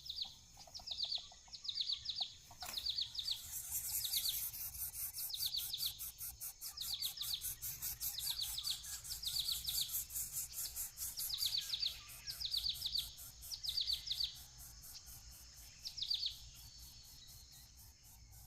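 A bird calling over and over in quick runs of three to five high notes, about one run a second. A high, fast-pulsing insect drone runs under most of it and fades near the end.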